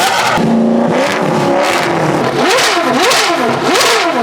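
Loud supercar engine being revved hard, its pitch climbing and dropping again in quick blips, several in a row in the second half.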